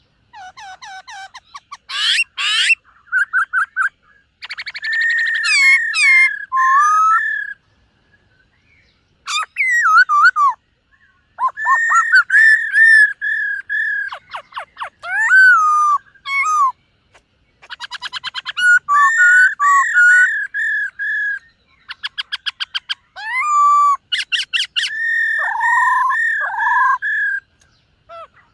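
Black-throated laughingthrush singing a long, varied song: runs of repeated clear whistled notes, rapid trills and sliding phrases, broken by short pauses.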